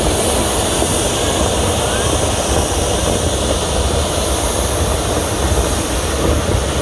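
Steady loud rushing rumble of a narrow-gauge steam train rolling along, heard from aboard a passenger car.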